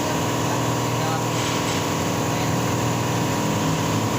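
A steady mechanical drone, like a motor or engine running, holding an even pitch.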